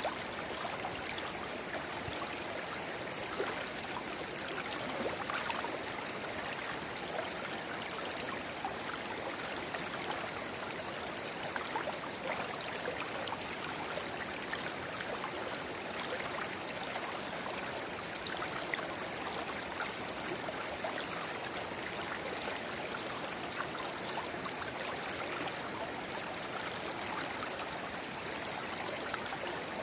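A shallow river babbling, with a small spring-fed rivulet running into it: a steady rush of water flecked with many small gurgles and splashes.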